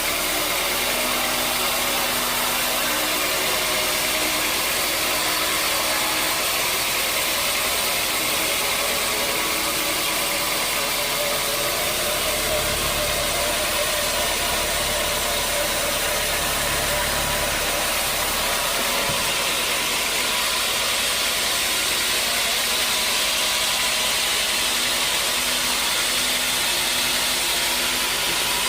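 Sawmill machinery running steadily, an even, unbroken mechanical noise.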